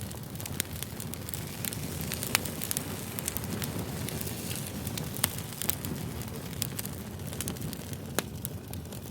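Campfire crackling: a steady low rush of burning wood under frequent, irregular sharp pops, the loudest about two and a half and five seconds in.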